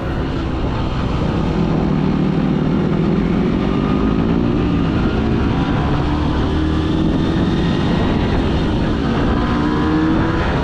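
Small 125 cc motorcycle engine running under way, its note rising gradually as the bike pulls along.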